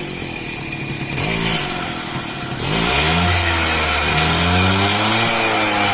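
TVS Champ 50cc moped's single-cylinder two-stroke engine being revved with the throttle, blipped briefly about a second in, then opened up louder at about three seconds with its pitch rising and falling. It runs smoothly and picks up well on its original, never-rebuilt engine, freshly serviced.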